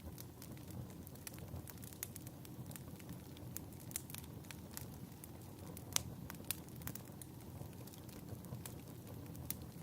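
Fireplace crackling: irregular small pops and snaps over a low steady rumble of burning logs, with one louder pop about six seconds in.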